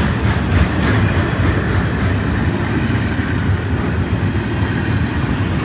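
Intermodal freight train rolling past at close range, a steady rumble of wheels on rail as the container cars go by.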